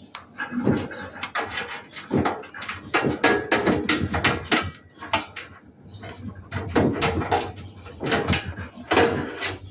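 Repeated clicks and knocks from handling a gas water heater's parts while a loose earth wire is refitted, with some voice-like sound behind them.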